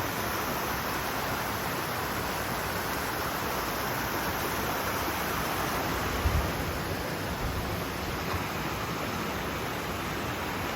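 Woodland stream running under a small footbridge: a steady, even rush of water. A brief low thump about six seconds in.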